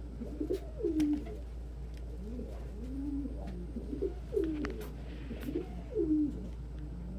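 Several domestic pigeons cooing in a loft, one coo after another and some overlapping, each call swooping up and down in pitch. A few faint clicks sound among them.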